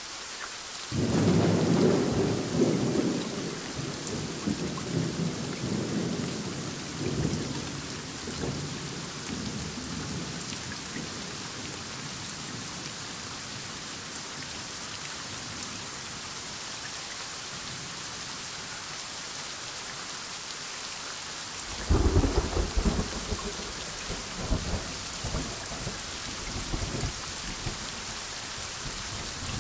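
Heavy rain falling steadily through a thunderstorm, with two peals of thunder. The first starts about a second in and rolls away over several seconds. The second, sharper crack comes about two-thirds of the way through and rumbles on almost to the end.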